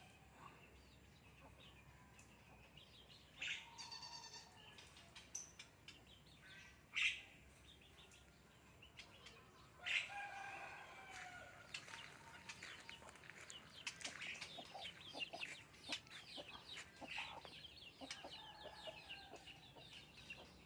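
Birds calling: scattered separate calls with sharp ones about seven and ten seconds in, then a quick run of short chirps through the second half.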